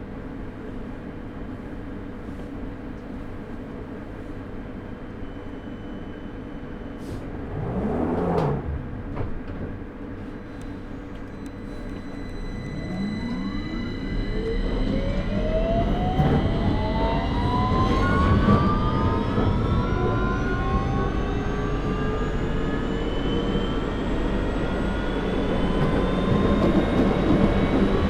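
Victoria line 2009 Stock train heard from on board, standing with a steady hum and then pulling away from about twelve seconds in. Its traction motors whine in several tones that rise steadily in pitch as it accelerates. Near eight seconds there is a brief swooping sound.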